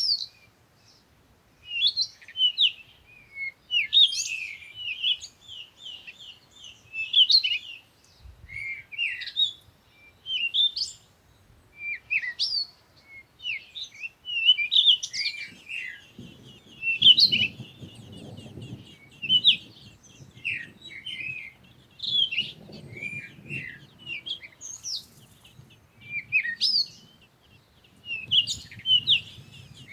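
Small birds chirping in quick, repeated bursts of high twittering notes. A low rumbling noise joins underneath about halfway through.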